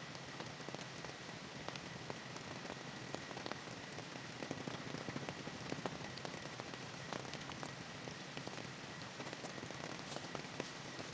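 Rain falling steadily, with many individual drops tapping sharply on a surface, over a faint steady high tone.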